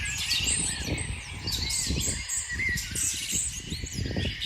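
Several small birds chirping and singing at once in quick, overlapping calls, over a low, uneven rumble.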